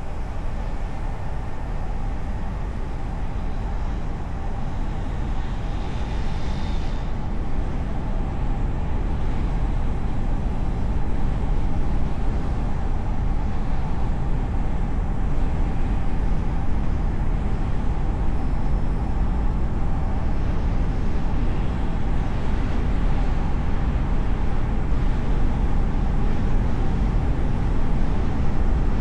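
Car driving through city traffic, heard from a camera mounted on its hood: a steady deep rumble of road and engine noise that grows slightly louder as it goes, with a brief higher sound about six seconds in.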